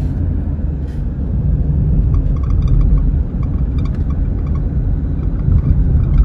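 Road and drivetrain rumble inside the cabin of a 2014 Jeep Grand Cherokee on the move, with a run of faint, short squeaks from the driver's side of the dash starting about two seconds in. The owner traces the squeak to the hood hinge and hood stop bump rubbing against the firewall, made worse by raising the bump stop.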